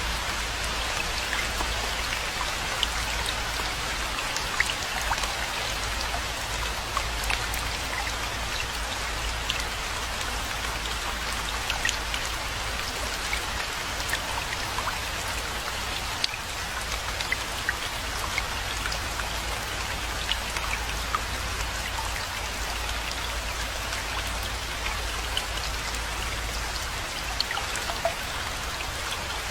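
Steady rainfall, with many separate drop impacts ticking over the even hiss of the rain, and a steady low rumble beneath.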